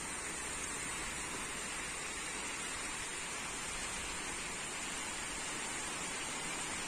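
Steady summer rain falling, an even hiss of rainfall with no breaks or single drops standing out.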